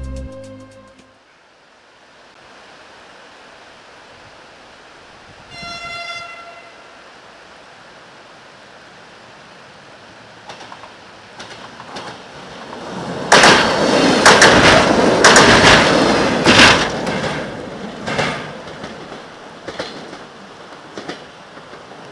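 Diesel multiple-unit train sounding one horn blast about six seconds in, then running past on a steel bridge, its wheels clacking loudly over the rail joints for a few seconds before the sound fades away.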